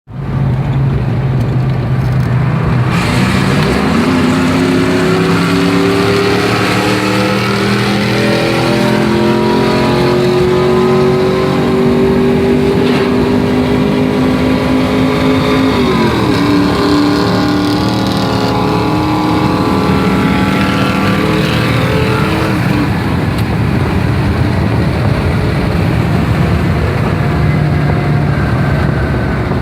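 Drag-racing V8 pickup trucks, a supercharged 5.4 Ford Lightning and a cammed 5.3 Chevrolet Silverado. The engines run steadily at first, then go to full throttle about three seconds in, their pitch climbing steadily for some twelve seconds. Around the middle the pitch drops sharply as they come off the throttle, and the engines keep running lower after that.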